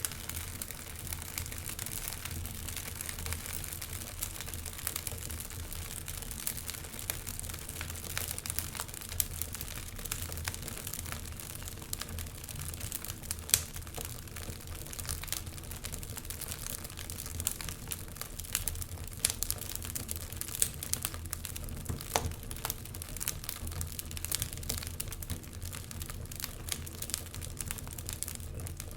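Wood fire crackling in a fireplace, with frequent irregular sharp pops and snaps over a low, steady rumble.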